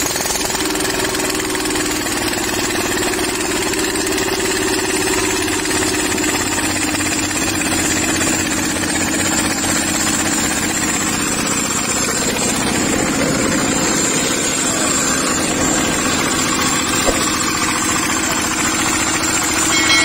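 Single-cylinder diesel engine running steadily with a fast, even knocking beat. The engine has somewhat low compression and had been hard to start.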